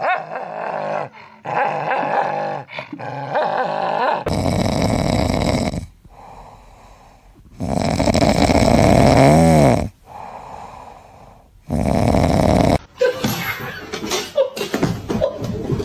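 A dog's vocal sounds across several short clips cut one after another; the loudest stretch, about halfway through, has a pitch that wavers up and down.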